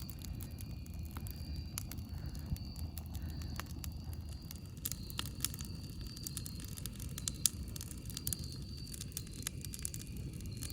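Campfire crackling: frequent sharp pops and snaps over a steady low rumble, busier in the second half, with one louder pop about seven seconds in.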